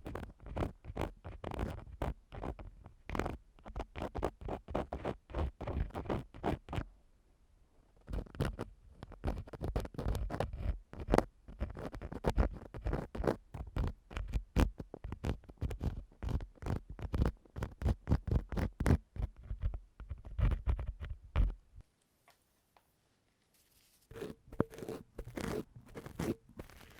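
Ear-cleaning tool scraping and rubbing inside a microphone's ear, close up: rapid scratchy strokes, several a second, with a short pause about a third of the way through and a brief silence near the end before lighter strokes resume.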